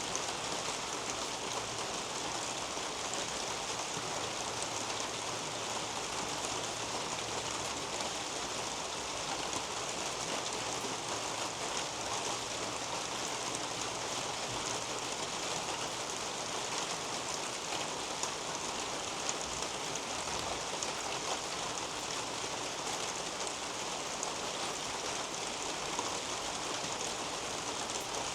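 Steady rain falling on a leafy garden canopy: an even hiss of rainfall with many fine drop ticks pattering through it.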